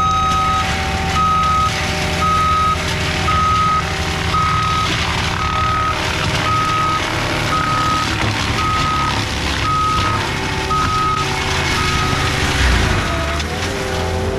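Skid steer's reverse alarm beeping steadily about once a second over the steady running of its diesel engine as the machine backs up.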